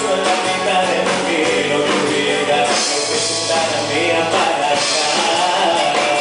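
Live band playing a pop-rock song, with singing over the instruments and a cymbal wash in the middle.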